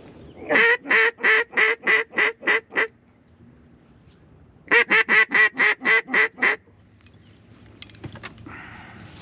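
Mallard-style duck call blown in two series of about eight quacks each, the first slower and fading note by note, the second quicker. This is a hail or greeting call to bring in ducks flying past.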